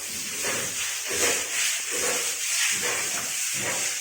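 A pig-pen floor being washed down: a steady hiss of running or spraying water with repeated scraping strokes.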